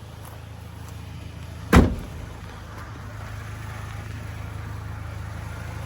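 Truck engine idling with a steady low hum, and one loud door slam about two seconds in.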